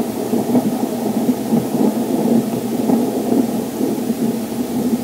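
Thunderstorm rain: a dense, steady rushing noise with no single clap or crash standing out.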